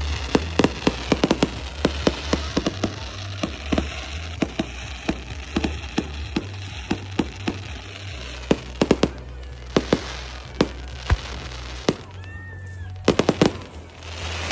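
Firecrackers and fireworks going off: many sharp cracks in quick, irregular succession, thinning out after about eight seconds, with a tight burst of cracks near the end.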